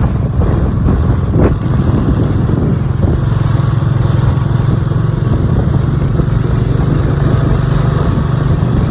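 Motorcycle engine running steadily with a constant low hum, as on a ride.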